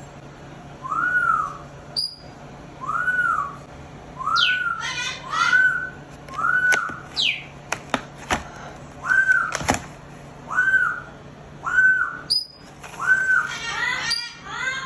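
A pet parrot whistling: one short rise-and-fall whistle repeated about every second and a half, with a couple of higher squeals sweeping downward and a few sharp clicks.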